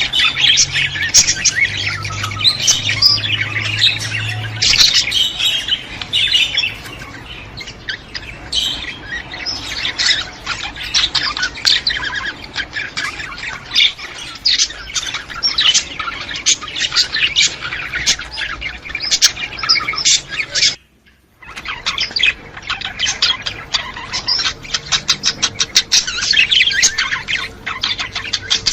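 A flock of budgerigars chattering, with dense, rapid chirps and squawks. The sound drops out for less than a second about three quarters of the way through, then the chatter resumes.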